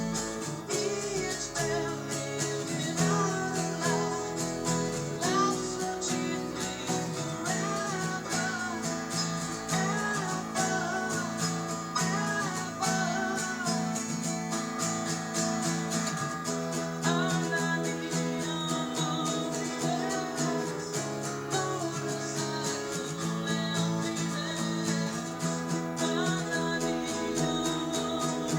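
Acoustic guitar strummed steadily in chords, with a wavering melody line carried above the strumming.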